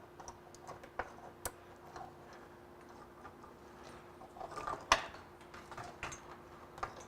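Scattered light clicks and knocks of cables and plugs being picked up and handled, strongest about five seconds in, over a faint steady hum.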